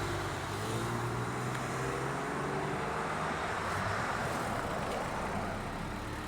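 Porsche Carrera engine pulling away from the car meet, its note rising a little over the first few seconds and then fading as it drives off.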